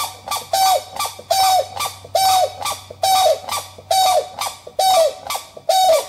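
A large bird calling in a regular series: eight short, harsh calls, evenly spaced, each dropping in pitch at its end.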